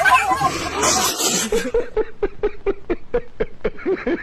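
A person laughing in a rapid, rhythmic run of short pulses, about six a second, beginning about a second in after a brief bit of talk.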